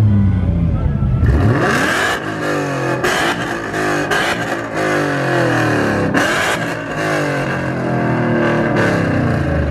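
A car engine revving up and down again and again. From about a second in, the tyres screech loudly as they spin on the pavement, as in a burnout or donut.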